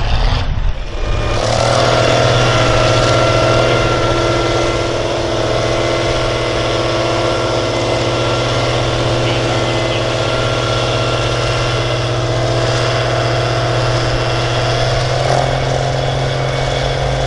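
Engine of a pulling vehicle at a tractor pull, running loud and steady at one pitch; it comes up about a second in and holds with only a slight change near the end.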